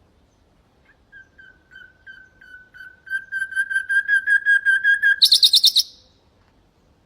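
Nightingale singing one phrase: a run of repeated whistled notes, soft and slow at first, then louder and quicker, ending with a brief, very rapid high trill about five seconds in.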